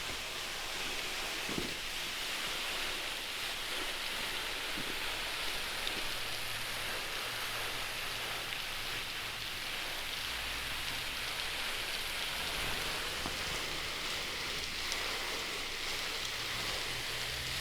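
Steady hiss of falling water: rain coming down together with the waterfall pouring, with a few faint drips or taps.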